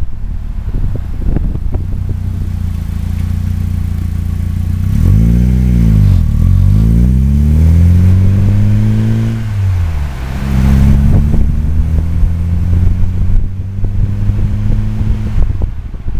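VW Scirocco 16V's 16-valve four-cylinder engine accelerating heard from outside the car: the revs climb quickly about five seconds in and drop at a gear change, climb in a long pull and drop again at the next shift about ten seconds in, then hold fairly steady and fall off near the end. Wind rumbles on the microphone throughout.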